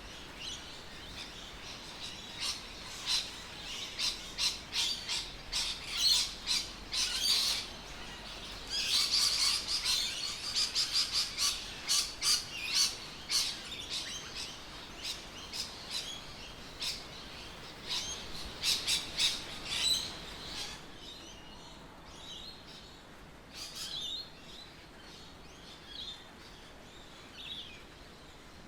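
Birds chirping and calling, many short high notes in quick succession, including a fast run of repeated notes, thinning out after about twenty seconds.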